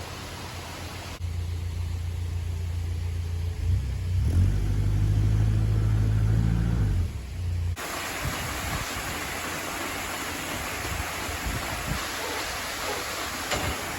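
A motor engine running with a low steady hum, growing louder a few seconds in, then cut off abruptly; after that, steady outdoor wind noise with a few faint knocks.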